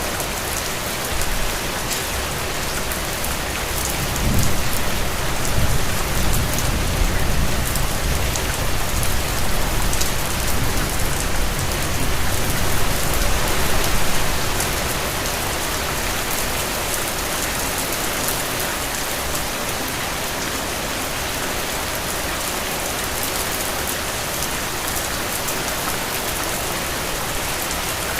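Steady rain. A low rumble swells about four seconds in and fades out about ten seconds later.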